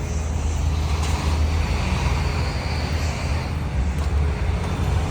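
Steady low outdoor rumble with an even hiss above it.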